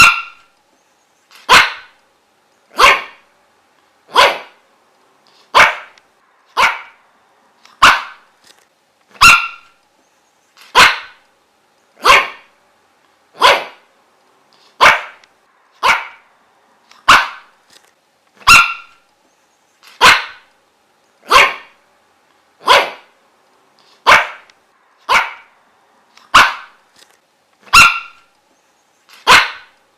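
A dog barking single, sharp barks at an even pace, about one every second and a half, with no pauses between them.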